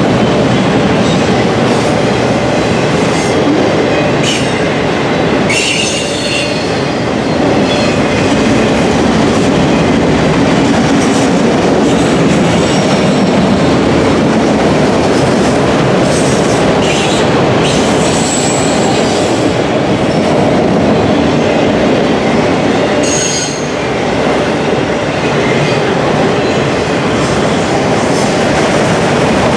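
Enclosed autorack freight cars rolling past: a loud, steady rumble of steel wheels on the rails. Brief high-pitched wheel squeals come in several times.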